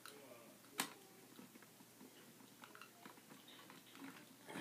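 Faint small clicks and rustles of plastic toy train cars being handled, with one sharp click about a second in.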